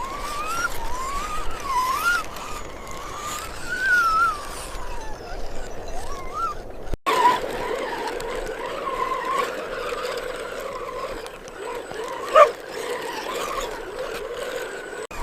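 Electric motor whine of radio-controlled trucks, its pitch rising and falling as the throttle is worked, with one brief sharp sound about twelve seconds in.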